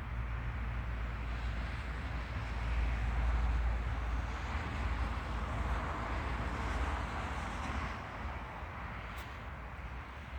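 Steady outdoor noise with a low rumble from wind buffeting the microphone. It swells for a few seconds, then eases near the end.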